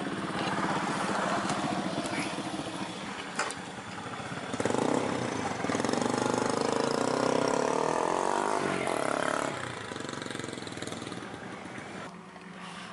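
A small engine running steady, getting louder with its pitch shifting about four and a half seconds in, then easing back down near the ten-second mark.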